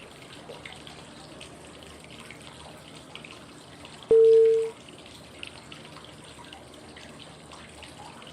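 Steady flowing-water white noise, with a single short mid-pitched prompt tone about four seconds in. The tone is the loudest sound and is the cue marking the next five-second step of a 5-5-5 breathing exercise.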